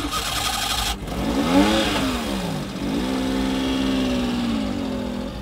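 Car engine revving after a brief rush of noise at the start: the pitch climbs, falls back, climbs again and then holds steady before cutting off.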